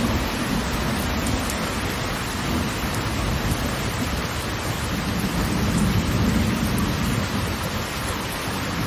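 Waterfall's steady roar of falling water: a dense, unbroken rush with a heavy low rumble.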